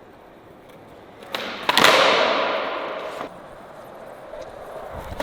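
Skateboard trick attempt on flat ground: a sharp pop of the tail, then the board slapping down a moment later and its wheels rolling away with a rumble that fades out over about a second and a half.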